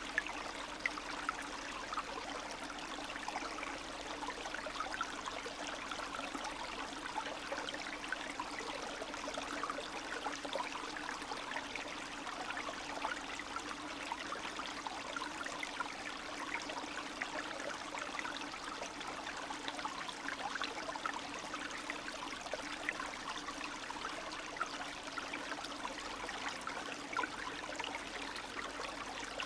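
Spring stream of snowmelt water running steadily, with many small trickles and splashes over a constant rushing wash.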